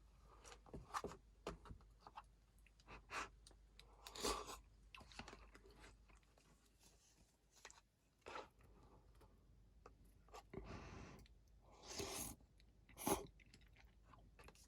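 Quiet eating sounds at a meal of soup pasta: a person chewing, with scattered short clicks and rustles throughout and a few louder ones.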